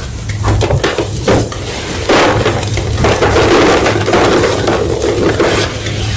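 A slab of gym chalk crunching: a few separate sharp cracks, then from about two seconds in a dense, continuous crumbling crunch that eases off near the end. A steady low hum runs underneath.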